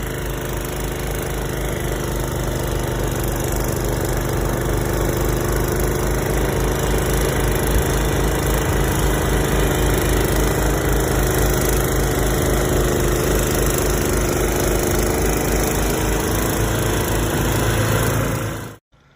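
A loud engine running steadily at a constant speed, with a fast, even low pulse. It starts and stops abruptly.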